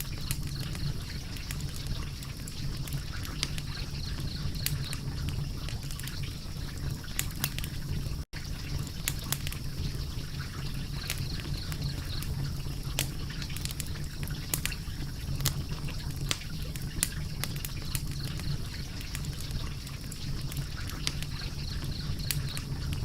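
Wood fire crackling, with frequent sharp pops and snaps over a steady low rumble of flames. The sound cuts out for an instant about eight seconds in.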